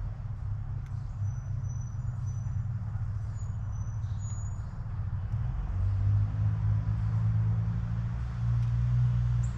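Low steady rumble of road traffic, swelling louder for a few seconds about six seconds in as a vehicle passes. A few faint, short, high bird chirps sound over it in the first half.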